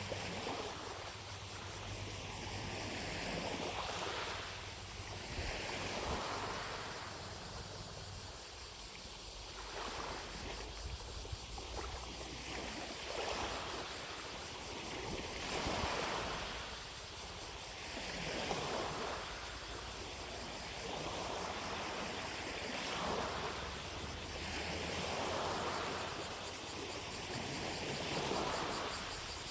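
Small lake waves lapping on the shore in soft washes about every one and a half to two seconds. A faint, steady high buzz of distant cicadas runs underneath.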